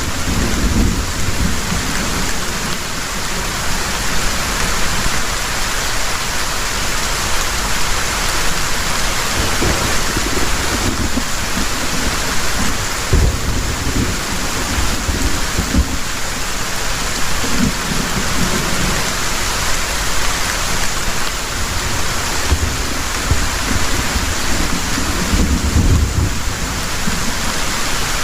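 Heavy rain falling steadily, with low rolls of thunder rumbling now and then beneath it.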